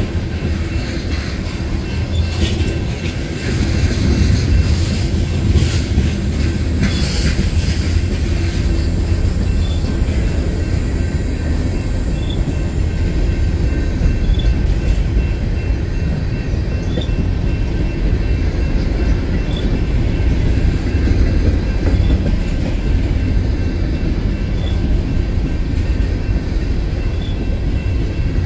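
Freight train cars rolling past at close range: a steady low rumble of steel wheels on rail, with a run of metallic clanks and rattles a few seconds in.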